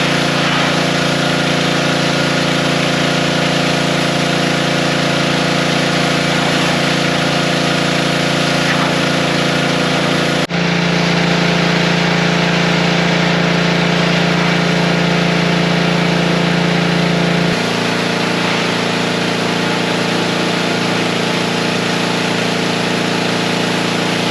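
An engine running steadily at a constant speed, with two abrupt changes in its tone, about ten and seventeen seconds in.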